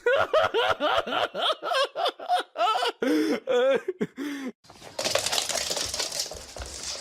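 A person laughing hard in quick repeated high-pitched bursts, about four or five a second. The laughter stops about four and a half seconds in, and a steady rustling noise follows.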